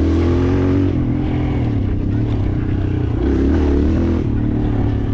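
Dirt bike engine running steadily while being ridden, its pitch rising and dipping slightly with the throttle.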